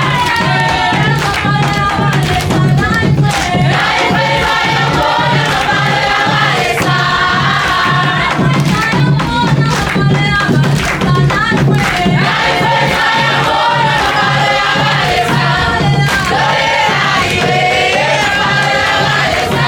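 A group of voices singing a worship song together over a band with a steady beat.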